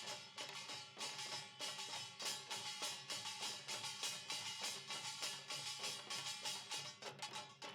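Korean samul-nanta percussion troupe drumming a fast, driving rhythm, the strikes coming several times a second without a break.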